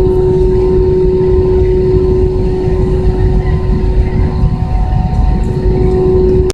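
Airbus A320 jet engines running steadily, heard from inside the passenger cabin as a loud, even rumble with a steady hum over it.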